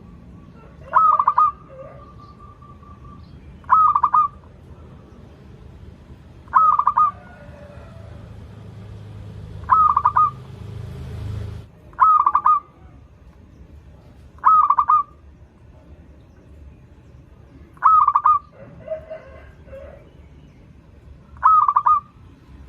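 Zebra dove (perkutut) cooing: eight short, clipped cooing phrases, each about half a second long, repeated every few seconds. A low rumble swells underneath and stops abruptly about halfway through.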